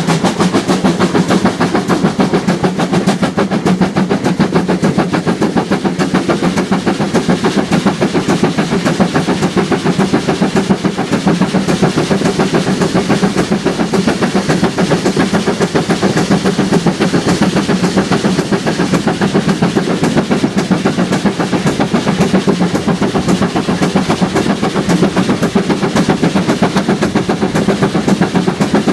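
A train running steadily along the line, with a fast, even, unbroken beat of rail clatter.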